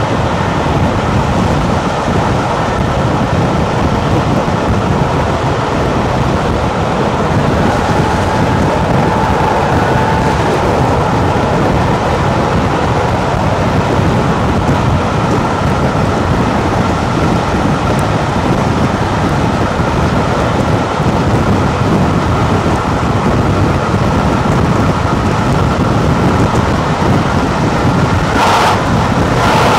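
Train running at speed: a loud, steady rumble and rush of wheels and air with no clear beat, and a short, sharp burst of noise about a second before the end.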